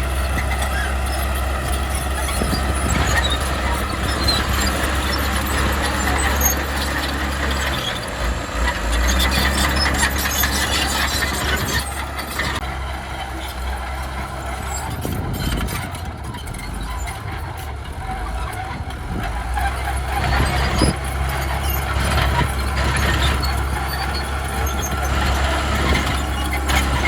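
Heavy diesel earthmoving machinery running steadily, with a high squeal over the engine drone.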